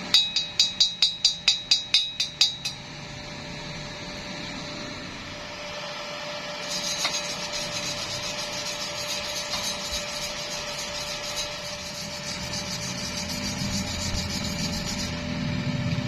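A hammer rapidly tapping steel, about eleven ringing strikes at roughly four a second. Some seconds later comes a dense crackling hiss that lasts about eight seconds and then cuts off.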